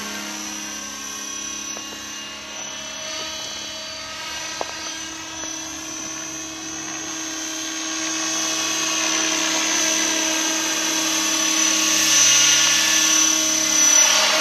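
Electric Align T-Rex 600 RC helicopter in flight: a steady, high motor-and-gear whine over the rotor blade noise, growing louder over the second half as it flies closer.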